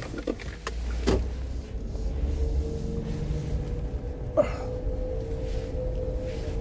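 Car interior sounds: a few sharp clicks and knocks over a low rumble, with another click about four seconds in followed by a steady hum.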